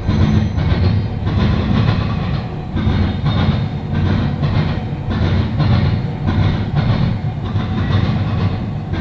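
Norfolk Southern intermodal freight train rolling past, its wheels clattering over the rails with a steady repeating beat of about three clacks every two seconds.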